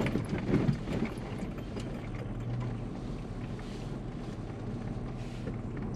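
Vehicle engine running at low speed with tyre and road noise, heard from inside the cab while driving on an unsealed track; a few knocks and rattles in the first second.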